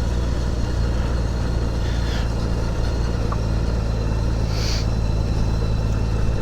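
Motorcycle engine running steadily at low cruising speed, a steady low hum with road and wind noise.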